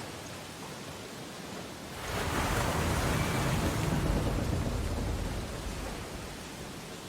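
Ocean surf on a beach: a steady wash, then a wave breaks about two seconds in, swells for a few seconds and recedes.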